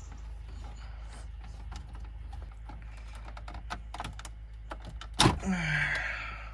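Small plastic clicks and rattles as wiring connectors are unplugged from the back of a car radio. About five seconds in there is one loud sharp knock, followed by a short scrape.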